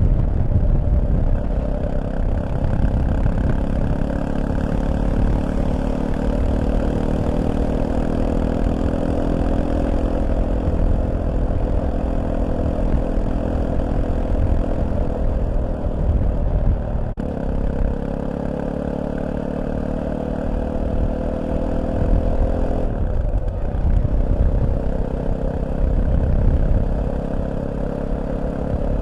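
Fantic Caballero 500's single-cylinder four-stroke engine running under way, its pitch slowly climbing, with low wind rumble. The pitch breaks off about two-thirds of the way in, drops again a little later, then climbs once more, as with gear changes.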